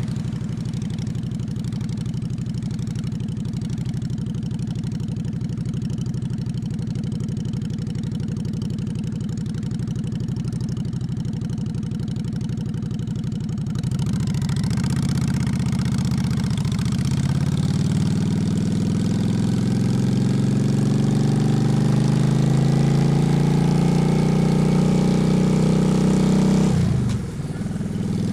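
Honda Shadow V-twin motorcycle engine idling steadily for about fourteen seconds, then pulling away and accelerating with a rising note. It eases off sharply for a moment near the end, as at a gear change, then pulls on.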